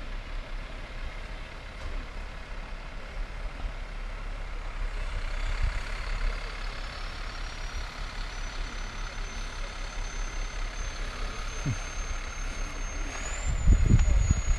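Vehicle noise with a thin, high whine that begins about a third of the way in and rises slowly in pitch. A few low thumps come near the end.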